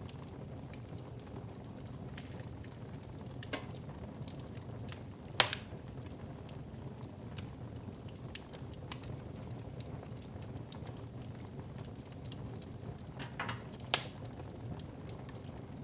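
Wood fire in a fireplace crackling, with many small irregular ticks and two sharp loud pops, one about five seconds in and one near the end.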